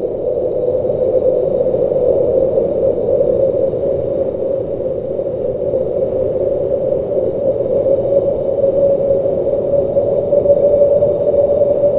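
Blizzard wind ambience: a steady rushing noise with a low hum-like band at its core, swelling and easing slightly in loudness.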